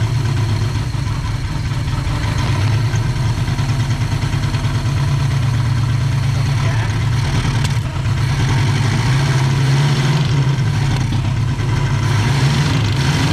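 Car engine, just started after sitting about ten years, running steadily at idle with a slight rise in speed about nine seconds in.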